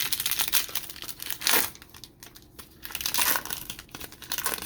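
Crinkling of a trading-card pack wrapper while the cards are handled, with louder crackles about one and a half and three seconds in.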